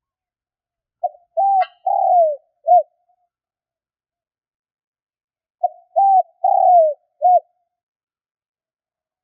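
Spotted dove cooing: two phrases of four notes about four seconds apart, the third note in each the longest and sliding down in pitch.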